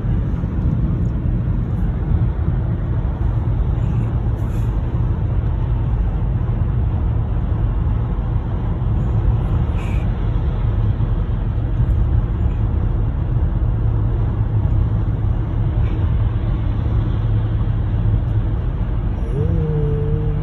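Steady road and engine noise inside a moving truck's cab at highway speed, mostly a low rumble.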